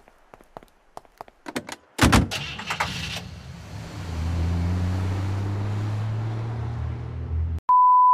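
Soft steps, then at about two seconds a car door shuts and a car engine starts. The engine runs steadily as the car drives off. It cuts off abruptly near the end into a steady one-kilohertz test-tone beep, the kind played over TV colour bars.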